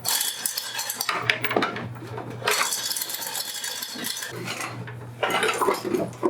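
Metal clinking and clattering in three spells, as of steel tools or hardware knocking together.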